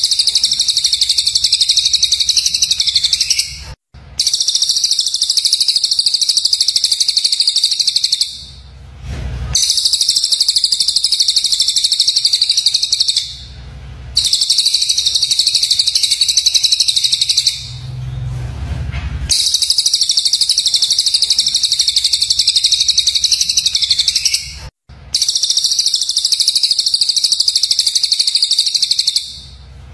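Recorded songbird song from a murai batu training track: dense, high-pitched, rapid trilling phrases, each about four to five seconds long, repeated six times with short pauses between.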